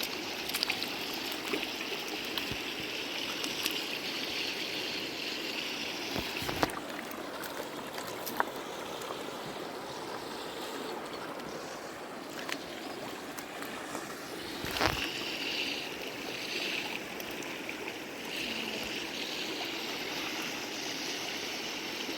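Steady rushing of a flowing stream, with a couple of short knocks.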